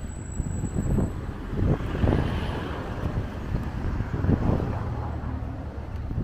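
Road vehicle noise: a steady engine and tyre rumble with hiss, swelling about two seconds in.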